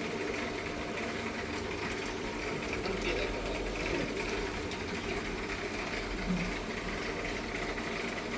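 Steady electric hum of aquarium air pumps and filters running in a fish shop.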